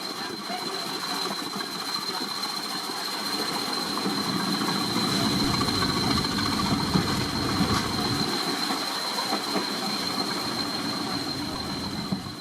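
A standing railway locomotive, heard as a steady noisy hiss with a thin high whine held throughout.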